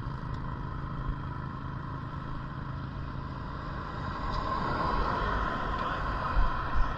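Steady rushing noise of riding along on a bike, with low rumble from wind and tyres. It swells noticeably about four seconds in.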